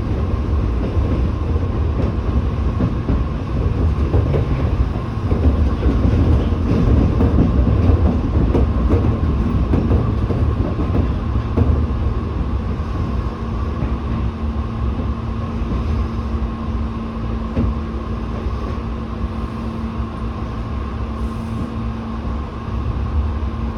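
Tobu 8000-series electric train rumbling over the rails as it slows into a station. From about halfway the rolling noise settles and a steady low hum of the standing train's equipment sets in.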